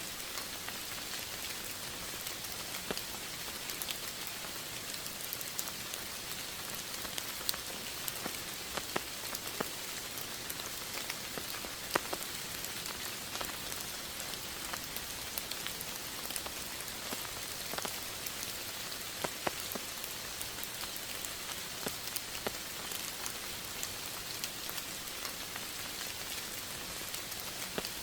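Steady rain falling, a constant hiss with scattered sharper drops striking a surface.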